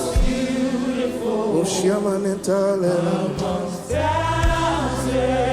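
Gospel worship song with voices singing over a held instrumental backing.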